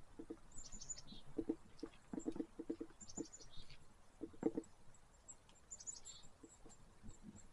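A songbird sings a short, high phrase of quick notes ending on a lower note, three times, about every three seconds. Soft low footsteps are heard between the phrases.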